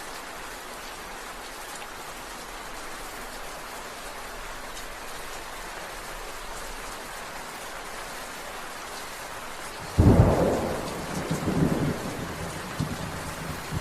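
Steady rain falling, then about ten seconds in a sudden loud thunderclap that rolls on in several rumbling swells.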